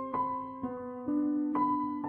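Background music: a soft piano playing slow, sustained notes, with a new note or chord about every half second.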